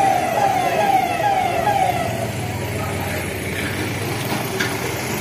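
Police vehicle siren wailing in quick falling sweeps, about two a second, fading out about two seconds in; a vehicle engine runs low underneath afterwards.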